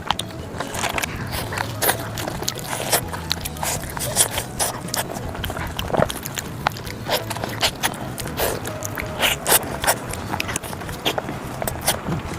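A person eating close to the microphone: irregular crisp biting clicks and wet chewing sounds, several a second.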